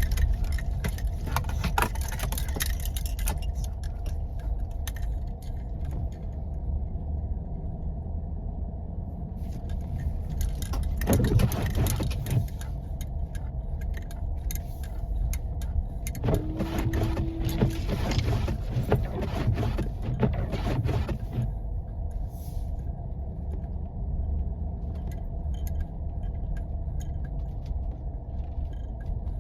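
Cabin noise of a 4x4 driving on snowy roads: a steady low rumble of engine and tyres, with bursts of rattling and clicking from the interior over bumps. A brief squeak comes about two-thirds of the way through.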